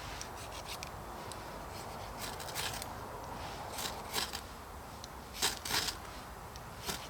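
Ferro rod being struck with a scraper to throw sparks onto silver birch bark scrapings: a string of short, sharp rasps in small groups, repeated over several seconds while the tinder fails to catch at first.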